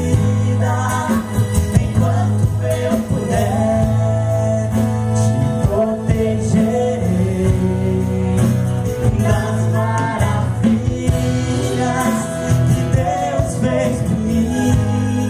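Live band playing a gospel song: a singing melody line over steady bass and drums.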